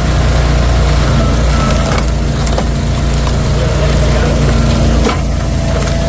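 Log splitter's engine running steadily while wood is split, with a few sharp cracks of splitting wood.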